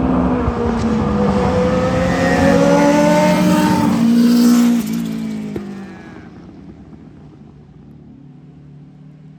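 Vintage Indy race car engine at speed, its pitch dipping and then climbing as it revs past close by, then dropping off and fading away about five seconds in.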